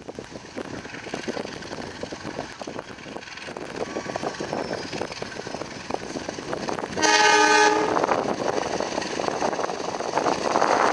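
Tegal Express diesel-hauled passenger train pulling into the station, with rapid clicking of wheels over the rails. About seven seconds in, the locomotive sounds one short horn blast of under a second. The train noise grows louder near the end.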